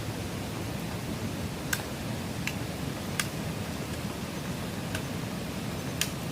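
Steady rain falling, a continuous hiss, with a few sharp, irregular ticks standing out above it.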